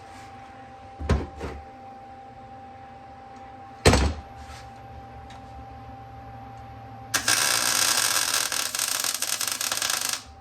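A few knocks of metal parts being set up, then a welding arc crackling for about three seconds before it stops suddenly: a bead being laid to attach a chevron to the springer fork leg.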